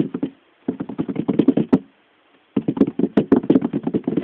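Rapid tapping or knocking, about ten taps a second in two or three quick runs with short breaks, made by a person imitating the patter of small animals' feet on granite rock.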